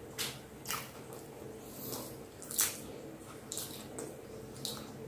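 Close-miked wet chewing and lip smacking while eating raw vegetables: about six short, sharp smacks, the loudest a little past halfway, over a faint steady hum.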